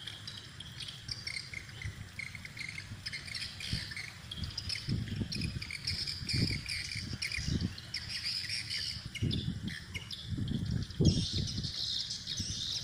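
Swiftlet calls: many overlapping high, rapid chirps and twitters, the sound of swiftlets at a swiftlet house answering a played call recording. Irregular low rumbles come and go from about a third of the way in.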